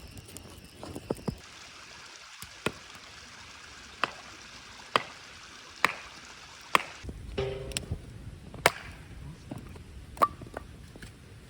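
Firewood being chopped: a run of about eight sharp strikes, roughly one a second.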